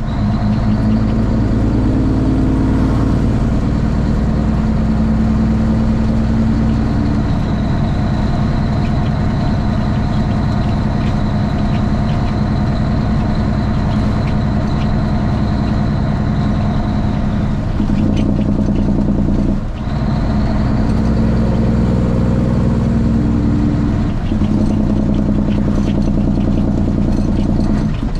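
Straight-piped Cummins ISX inline-six diesel of a Kenworth T800 truck running loud and steady over a high, steady whine. The engine note changes pitch several times, with a brief drop in level about twenty seconds in.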